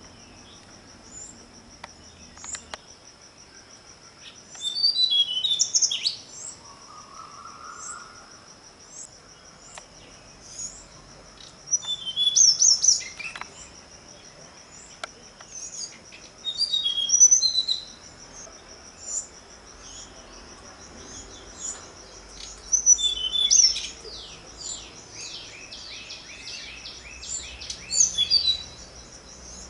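Birds chirping in short bursts every few seconds, the last a rapid run of falling notes, over a steady high-pitched insect trill.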